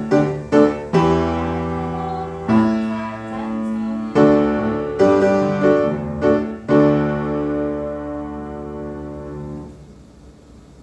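Piano playing a slow passage of struck chords, ending on a long held chord that fades away near the end.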